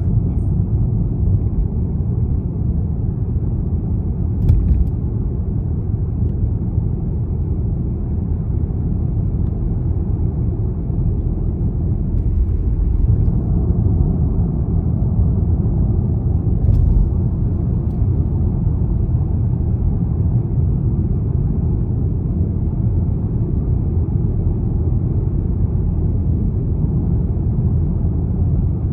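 Steady low rumble of a BMW 320d xDrive driving at a steady pace, mostly engine and road noise, with a couple of faint ticks.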